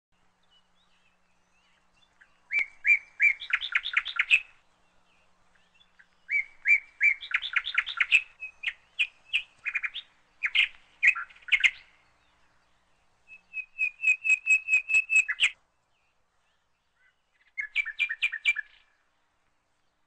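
A songbird singing in several phrases of quick repeated notes, separated by pauses of one to two seconds.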